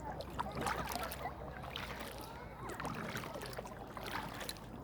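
Outdoor ambience: a steady low rumble with faint distant voices.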